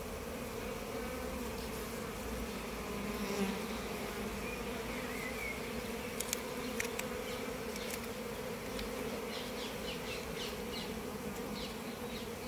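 Honey bees buzzing steadily around an open hive, a continuous low hum, with a few faint clicks in the second half.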